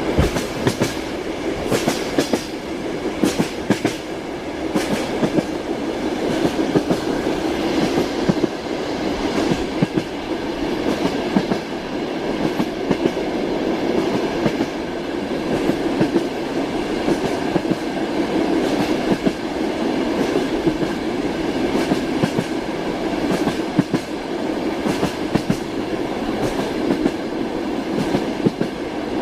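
Passenger train wheels clacking over the rail joints, over a steady running rumble.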